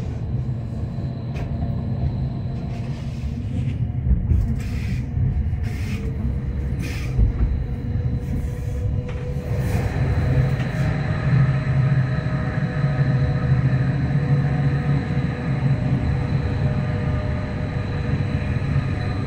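Interior running noise of a Rhaetian Railway narrow-gauge electric train: a steady low rumble of wheels on rails, with a few sharp clacks in the first half. About ten seconds in the sound becomes fuller, with steady whining tones over the rumble, as the train runs into a tunnel.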